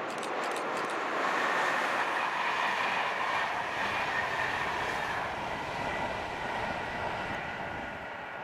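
Electric locomotive-hauled double-deck passenger train passing at speed: a steady rush of wheels on the rails with a faint whine. It is loudest about a second or two in and fades toward the end as the train moves away.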